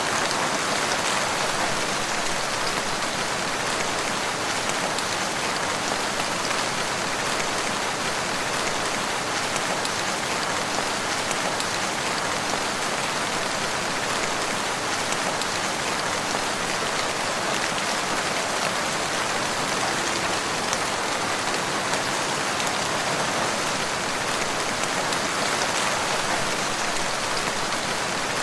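Steady rain falling on a surface: a dense, even patter that keeps an unchanging level.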